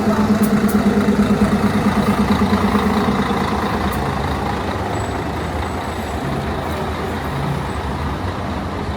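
A large road vehicle's engine running close by with a pulsing low note that fades after about three seconds, leaving steady street traffic noise.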